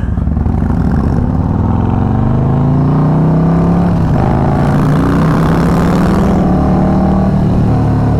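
Harley-Davidson motorcycle engine pulling under throttle while riding, its pitch rising over the first few seconds and then holding steady at cruise, with wind rushing past the rider.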